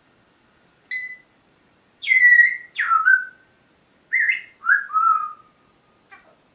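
Pet parrot whistling a string of about six short calls, most of them sliding down in pitch.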